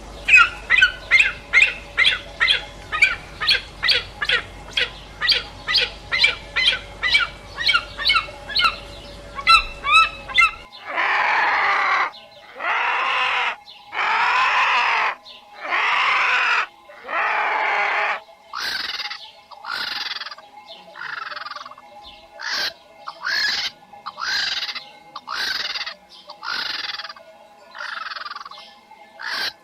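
Bird calls: a fast run of short repeated chirps, about three a second, for the first ten seconds. They then give way abruptly to a series of long harsh squawks, which grow shorter and quicker toward the end.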